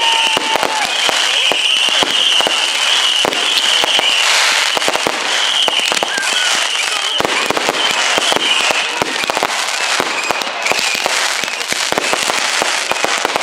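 Fireworks display: dense, continuous crackling and popping of aerial fireworks going off, with a high wavering tone heard through much of it.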